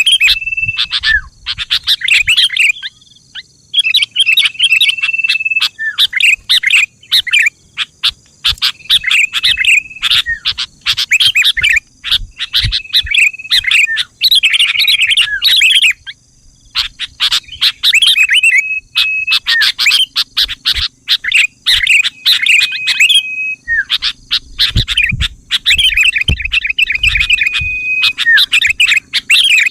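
Sooty-headed bulbul song: repeated bursts of quick chattering chirps, each a second or two long with short pauses between, many with a brief held whistle.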